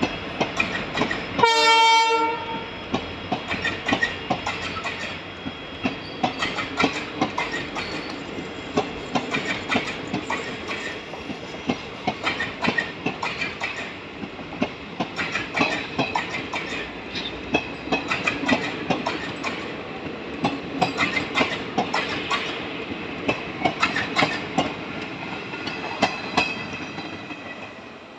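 Passenger train hauled by an electric locomotive: a short horn blast about a second and a half in, under a second long, then the clickety-clack of wheels over rail joints with a faint squeal of wheels on rail, fading near the end.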